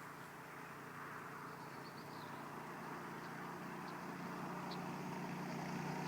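Baja mini bike's small engine running steadily at speed through its torque converter, growing gradually louder as the bike approaches.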